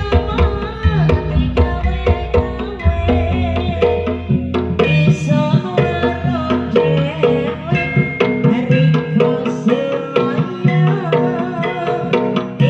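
Jaranan ensemble music: kendang hand drums playing a quick rhythm over gong and metallophone parts, with a deep gong tone ringing through the first half.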